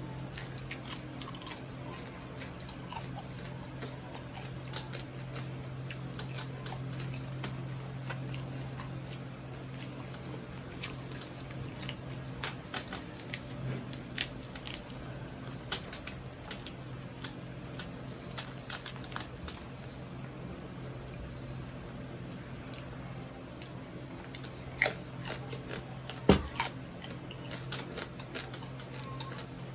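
Close-up eating sounds of crispy deep-fried pork knuckle: repeated crunching bites and chewing of the crackling skin, over a steady low hum. Two sharper knocks stand out a few seconds before the end.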